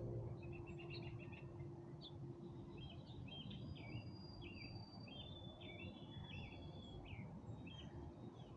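Several songbirds chirping and calling: short chirps, a quick trill about half a second in, and long thin whistled notes through the middle, over a low steady background rumble.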